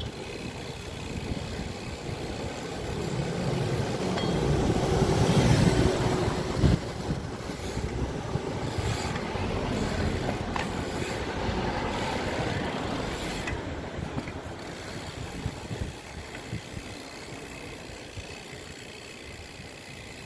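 Road noise during a ride along a street: a passing motor vehicle swells to its loudest about five seconds in and fades away, over a steady rumble.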